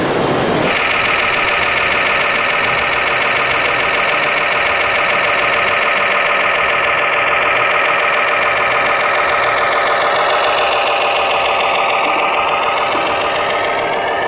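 A scale RC construction machine running: a steady, layered motor sound made of several tones, some of which slide down in pitch near the end.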